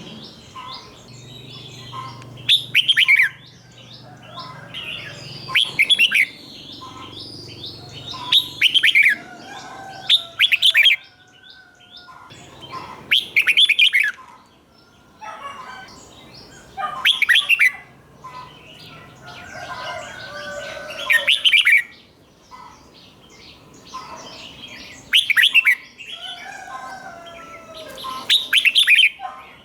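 Red-whiskered bulbul singing: loud, quick phrases of sliding notes repeated every few seconds, some given twice in a row, with softer chirps between.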